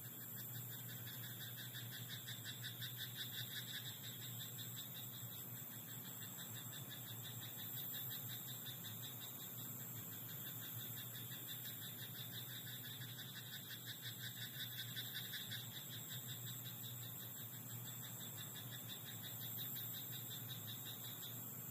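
Frogs croaking in a rice paddy: fast pulsing trills from several frogs that swell and fade in bouts of a few seconds, overlapping one another, over a steady high-pitched drone.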